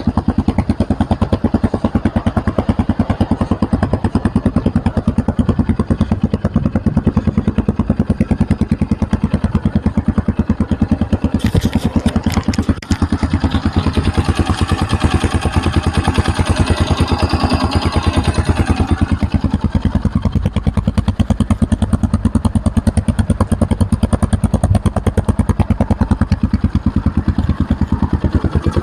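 Shineray CXR 250 four-valve single-cylinder motorcycle engine idling steadily after a start, its exhaust beating in an even pulse, with a deep, bassy note; the engine is still cold. A few brief clicks come a little before halfway.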